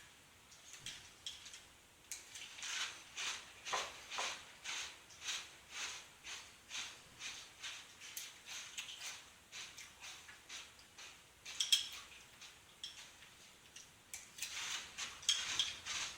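Crunchy Nature's Path Cheetah Chomps cereal in milk being chewed close to the microphone, a steady rhythm of about two crunches a second, with one sharp click near the middle and faster chewing near the end.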